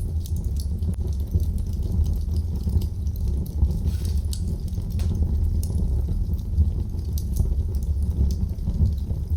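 Wood fire crackling in a fireplace: a steady low rumble of flames with scattered sharp pops and crackles throughout.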